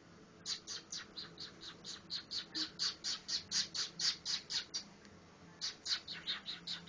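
Cockatiel chirping in a fast, even run of short, high calls, about five a second. The calls break off briefly about five seconds in, then start again.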